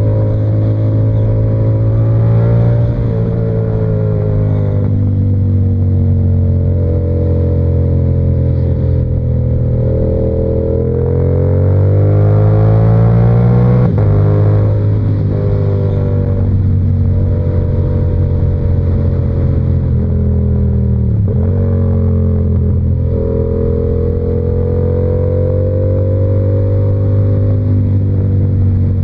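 Yamaha R7's parallel-twin engine, fitted with an SC-Project exhaust, running under way on the road. It holds a steady pitch, climbs in revs for a few seconds before the middle, drops sharply on a gear change, then dips briefly once more later on.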